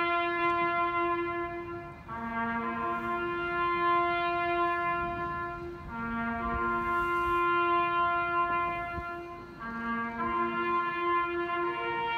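Slow brass music: held chords of several notes in long phrases, with short breaks between phrases about two, six and ten seconds in.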